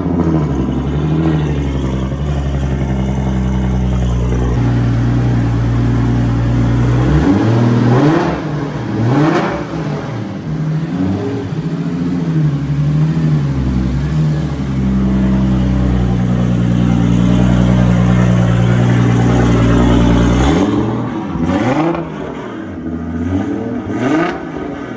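Lexus SC300's inline-six running loud through a 4-inch straight-pipe exhaust. It holds a steady idle, then is revved in short blips about a third of the way in, and again in the last few seconds.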